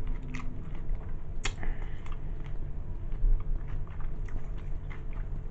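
A person chewing a mouthful of sandwich close to the microphone, with scattered short wet smacks and clicks of the mouth.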